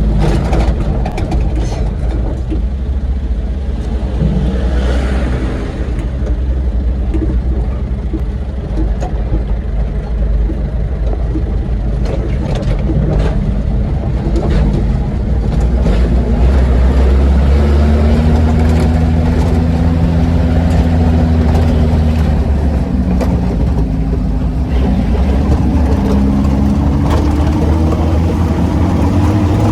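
An old truck's engine running while driving, its pitch rising and falling as the revs change and climbing again near the end. Frequent short knocks and rattles sound over it.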